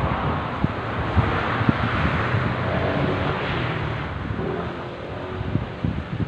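Wind buffeting the microphone in gusty low thumps, under a broad rushing noise that swells about a second in and fades after about four seconds.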